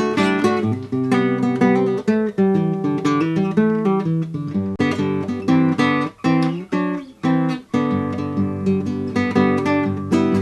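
Acoustic guitar music: strummed and picked chords and single notes, with a few brief breaks between phrases in the middle.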